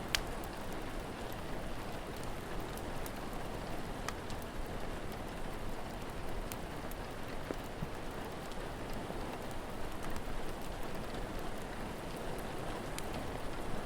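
Steady rain falling, with a few sharp crackles from a wood fire now and then.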